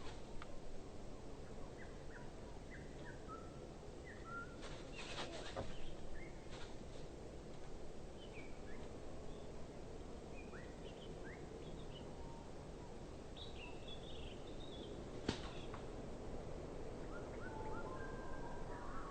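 Wild birds calling in short, scattered whistled notes over a steady outdoor background hiss. A few sharp clicks come about five seconds in, and a single sharp click comes near the end. The calling grows busier in the last seconds.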